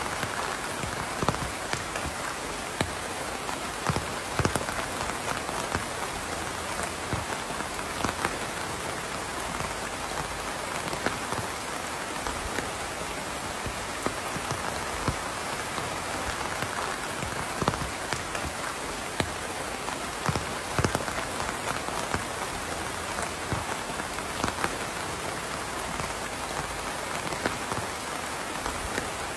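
Steady rain falling on a surface, an even hiss with scattered distinct drops landing close by.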